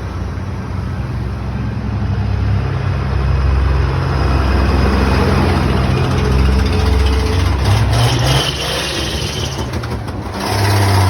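Tractor engines running with a steady low engine note. It grows louder about two seconds in, dips briefly near the end, then swells again.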